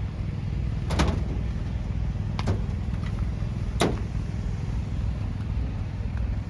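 A motor vehicle's engine running with a steady low rumble, with three sharp knocks about a second and a half apart in the first four seconds.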